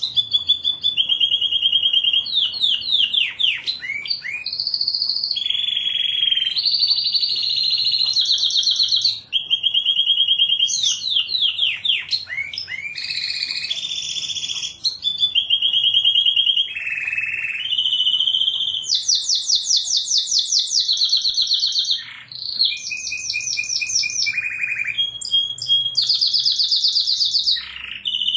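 Canary singing its continuous song: high-pitched rolls and trills, each a fast string of the same note repeated for a second or two before switching to a new one, with brief sweeping notes between them.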